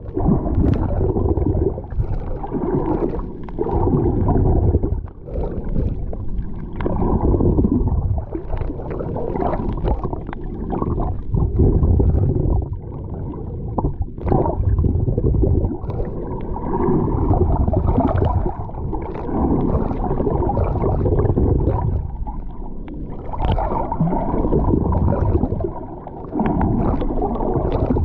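Sea water sloshing and gurgling close around the camera, heavy and muffled, swelling and easing in surges every few seconds.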